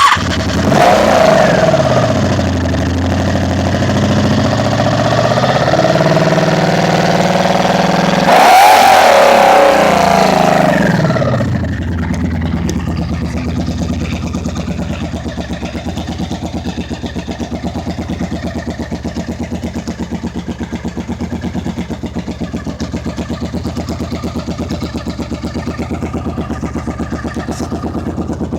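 1983 Honda Magna V45 750's V4 engine starting through shortened exhaust pipes, their trumpet-style ends cut off. It is revved up and down just after starting and again about eight seconds in, then settles into a steady idle with an even pulsing beat.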